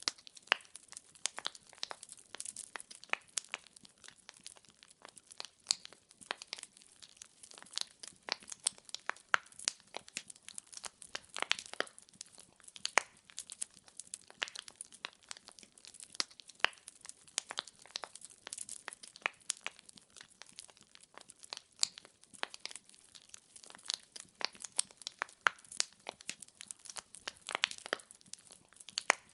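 Wood fire in a fireplace crackling: irregular sharp pops and snaps, several a second, over a faint hiss of burning.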